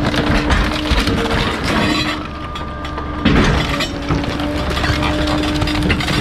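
Bulky-item garbage truck compactor crushing its load: dense cracking and snapping of breaking material over a steady hum. The breaking eases off about two seconds in and resumes with a loud crack just after three seconds.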